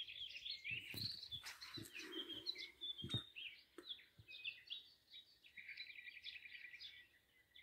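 Garden birds singing and chirping, with a fast, even trill from about five and a half seconds in. A few soft knocks near the start.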